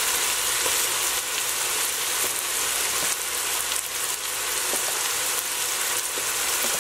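Chopped onions and tomatoes frying in oil in a pot, sizzling steadily.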